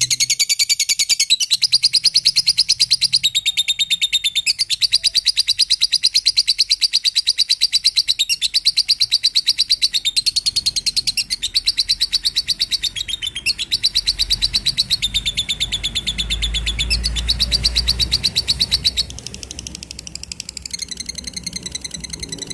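Lovebird singing a long, unbroken chattering song of very rapid high repeated notes, its pattern shifting every second or two and dropping somewhat in level near the end.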